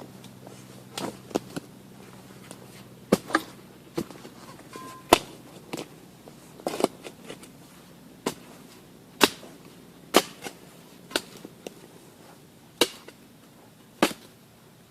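Shovel digging into forest soil around a buried iron tow bar: a run of sharp, irregular blade strikes, roughly one a second.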